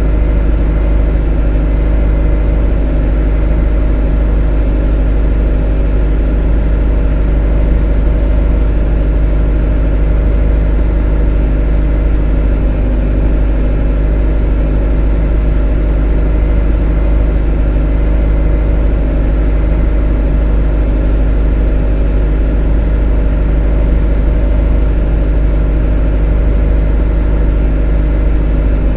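A motor running steadily at an unchanging speed: a continuous low drone with a steady hum and no change in pitch or loudness.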